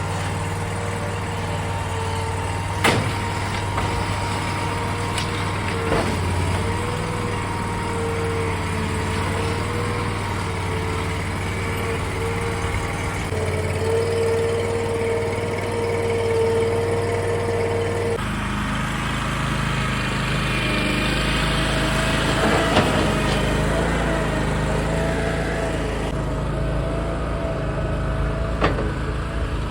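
Toro Dingo compact utility loader running at work, its engine humming steadily under a whining tone. The engine note shifts twice, about a third and about two thirds of the way through, and a few sharp knocks sound now and then.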